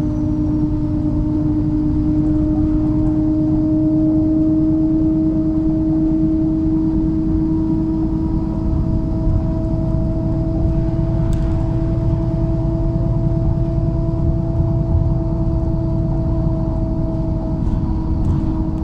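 MAZ-103 city bus driving, heard from inside the passenger cabin: a low rumble with a steady drivetrain whine that slowly rises in pitch as the bus gathers speed, then falls away near the end. A single click about eleven seconds in.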